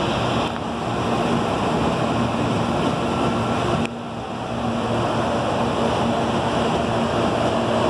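CPTM Series 8500 electric suburban train moving along the station platform: steady rolling noise of wheels and running gear, with a faint motor whine rising slightly near the end.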